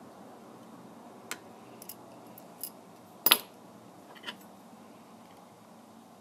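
Scattered small, sharp clicks and taps of hand tools and hard plastic parts being handled while a tablet is taken apart. About five clicks in all, the loudest a quick double click a little past the middle.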